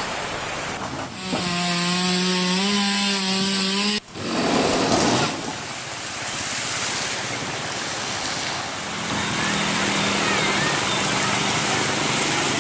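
Chainsaw running while cutting up a fallen tree. Its engine note is steady, steps slightly higher partway through and stops abruptly about four seconds in. After a stretch of rushing noise the engine note comes back faintly for the last few seconds.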